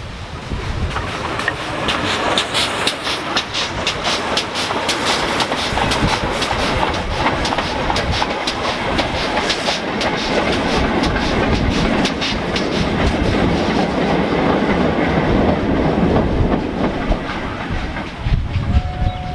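Train passing close by, its wheels clicking rapidly over the rail joints over a steady rumble. The clicking dies away in the last several seconds.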